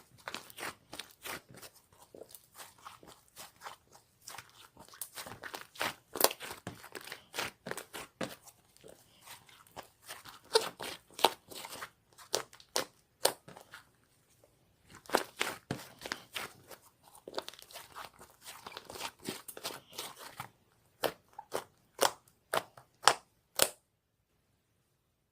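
Irregular sharp crunching and crackling clicks, close and dry, coming in clusters with short pauses, then stopping about a second and a half before the end.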